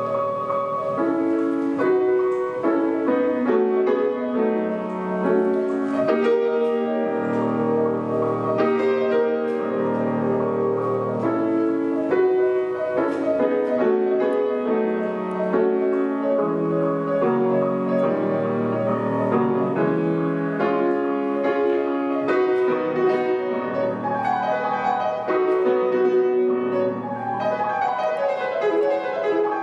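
Solo piano playing classical music, with many quick notes over moving bass notes throughout.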